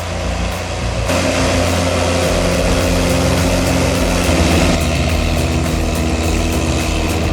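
Heavy machinery engine running steadily. The sound changes abruptly about a second in and again past the middle.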